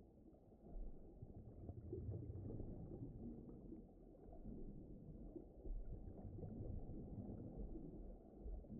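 Faint, low, slowly shifting rumble of deep underwater ocean ambience, with nothing above the low end.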